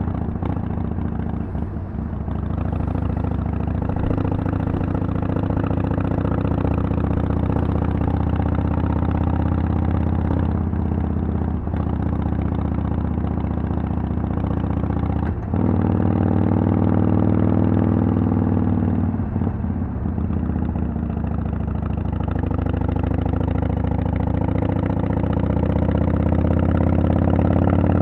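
2010 Harley-Davidson Sportster XL883L's air-cooled V-twin, exhausting through Vance & Hines Twin Slash mufflers, running under way with its pitch shifting as the throttle changes. There is a sharp break about fifteen seconds in, after which it runs louder, and the pitch climbs near the end.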